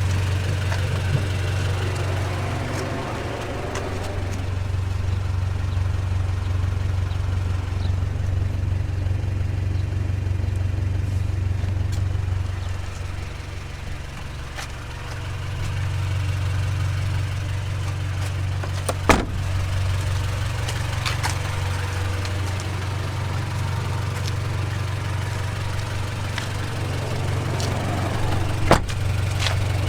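Honda Civic EG6's B16A four-cylinder engine running with a steady low drone that eases off briefly around the middle. Two short sharp clicks sound over it, one a little past halfway and one near the end.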